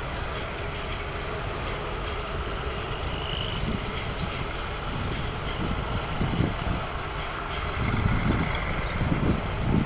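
A train running on the tracks: a steady rumble that grows a little louder and more uneven in the second half.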